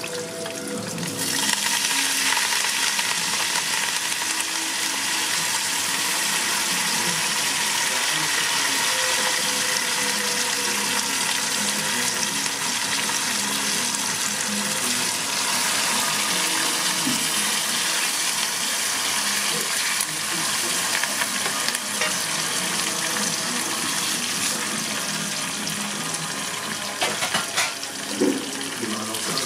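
Food frying in hot oil in a pan: a steady sizzle that swells about a second in and holds, with a few knocks near the end.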